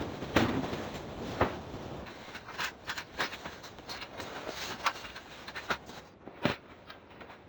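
A string of irregular knocks and clatters, like gear being handled, over a rushing wind noise that fades away after about six seconds.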